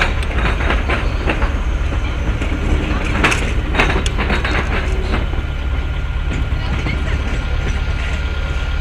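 Stadler FLIRT electric multiple unit passing close by over a level crossing, its wheels clicking over the rail joints in the first few seconds and again about three seconds in, over a steady low rumble as it moves away.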